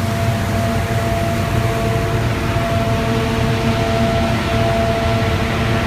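Steady drone of a vehicle under way, heard inside the cab: engine and road rumble with a steady whine running through it.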